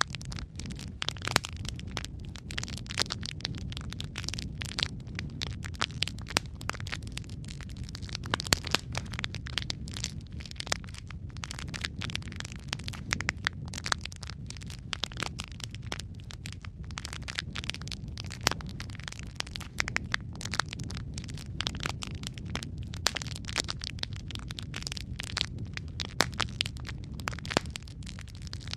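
Wood fire burning in a fireplace: a steady low rumble of the flames under frequent irregular sharp crackles and pops.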